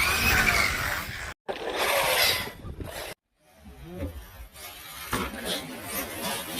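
Short cut-together clips of an RC stunt truck running: a rushing noise with a whine that rises and falls, cut off abruptly twice, then quieter outdoor sound.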